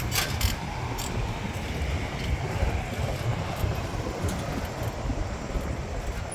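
Wind buffeting the microphone and a steady low rumble of riding a bicycle over city streets, with a few sharp clicks in the first second.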